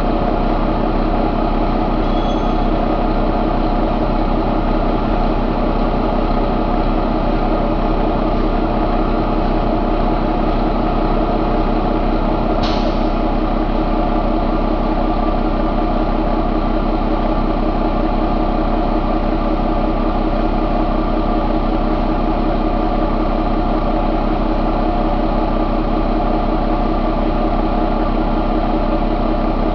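2015 Paccar MX13 inline-six diesel engine idling steadily at a constant speed. A single sharp click about halfway through.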